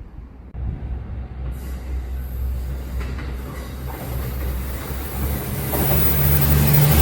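Kintetsu electric train approaching on the line, its running noise starting about half a second in and growing steadily louder. A high hiss from the rails joins about a second and a half in, and the rumble swells again near the end.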